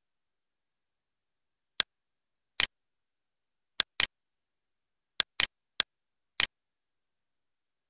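Computer mouse clicks: about eight short, sharp clicks starting about two seconds in, some in quick pairs, with dead silence between them.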